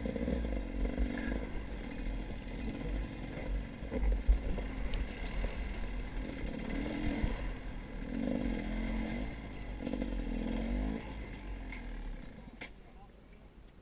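Vehicle engine running, its pitch rising and falling, over a heavy low rumble. It dies away about twelve seconds in, followed by a sharp click.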